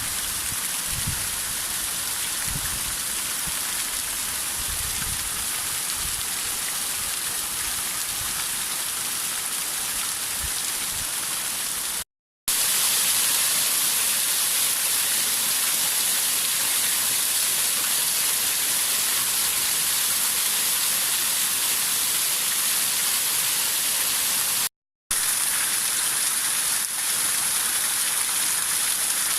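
Tarojiro Falls' steady hissing rush of falling water splashing into its plunge pool. The sound cuts out briefly twice, about twelve seconds in and near the end.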